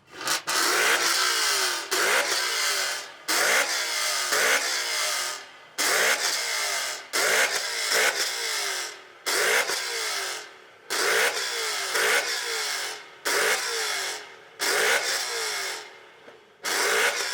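A performance car's engine revved hard over and over, a dozen or so short, sharp blips roughly one every second and a half, each gliding in pitch before dropping off.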